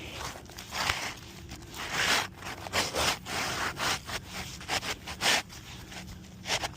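A run of short, irregular scrapes and rubs on roof shingles as they are worked by hand.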